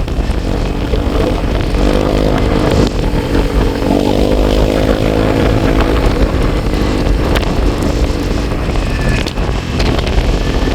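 Vehicle engine running under way, its pitch rising and falling as the speed changes, over a low rumble of wind on the microphone.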